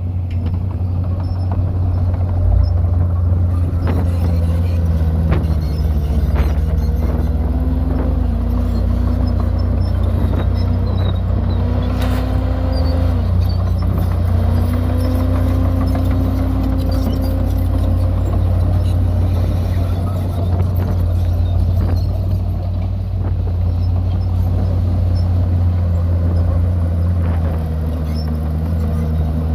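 Heavy diesel earthmoving machinery running steadily, its engine pitch rising and falling as it works, with a few faint clicks and squeaks.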